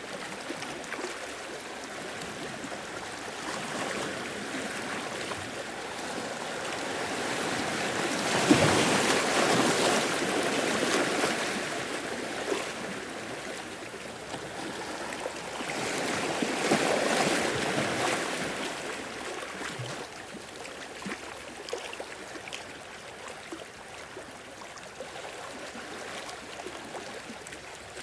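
Sea waves washing onto a beach, a steady hiss of surf with two larger waves breaking and washing in, about eight seconds apart.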